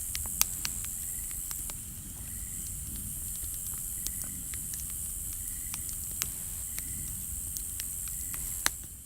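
Wood campfire burning: a steady hiss with scattered sharp crackles and pops, the loudest about half a second in and near the end.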